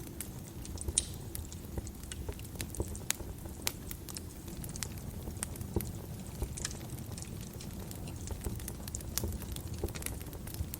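Wood fire crackling in a fireplace: irregular sharp pops and snaps over a low, steady rumble of the flames, with one louder pop about a second in.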